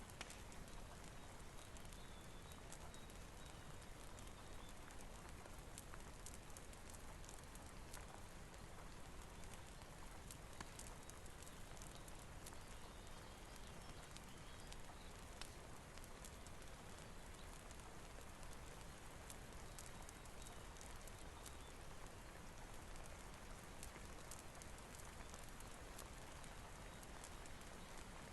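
Steady rain with a wood fire crackling, irregular sharp pops over a constant hiss.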